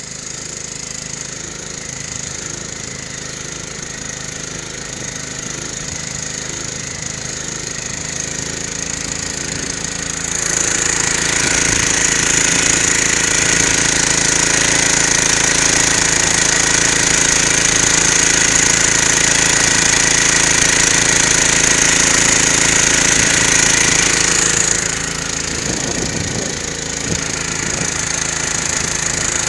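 Outboard boat motor running steadily. It grows louder about ten seconds in and falls back a little past two-thirds of the way through.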